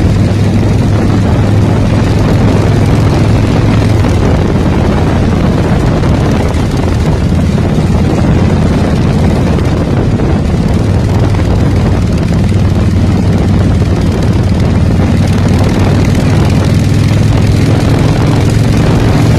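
Bobber motorcycle engine running at a steady pitch, loud and even, with a constant rushing noise over it.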